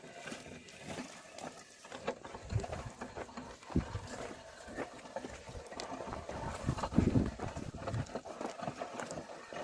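Oxen working a ploughed field: scattered steps, knocks and thuds, with a louder low thump about seven seconds in.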